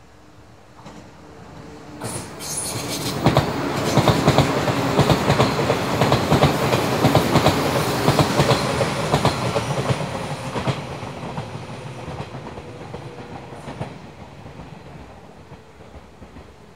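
115 series electric multiple unit train passing on the rails. Its wheels clatter rhythmically over the rail joints, growing loud from about two seconds in, loudest for the next several seconds, then fading as it pulls away.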